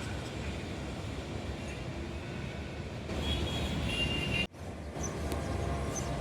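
Steady rumble of a passing train heard trackside, cut off abruptly about four and a half seconds in and then picking up again.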